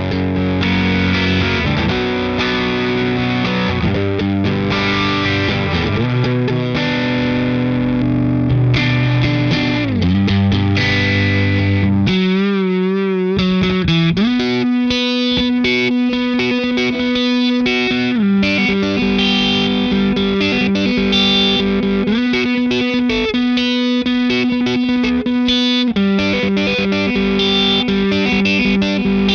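Electric guitar played through Ross Distortion and Ross Compressor pedals into a Fender '65 Deluxe Reverb reissue amp, giving a lightly overdriven, heavily compressed tone with long sustain. Chords ring out first; about halfway a single bent note wavers in pitch, then long held notes repeat in a riff.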